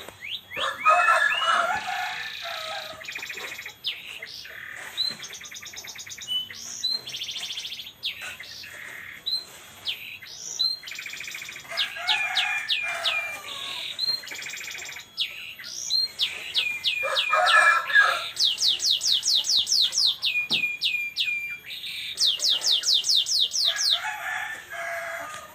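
Domestic canary singing a long, varied song of trills and whistled phrases, with rapid runs of falling whistled notes in the second half.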